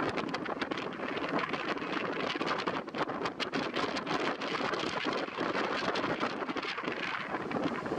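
Stormy wind and rain: a steady rush of noise, scattered with many short hits throughout.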